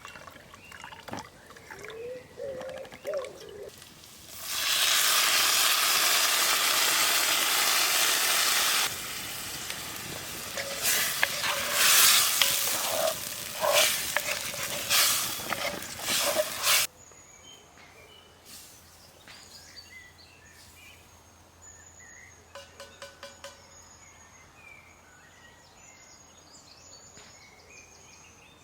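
Food frying and sizzling in a pan over a campfire, starting loudly about four seconds in, easing after a few seconds, with stirring clicks and scrapes, then cutting off suddenly. Afterwards, quiet bird chirps in woodland.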